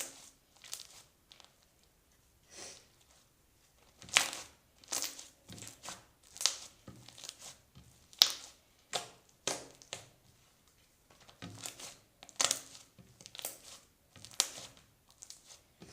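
Soft slime being squeezed and stretched by hand, giving irregular sticky crackles and pops, about one or two a second.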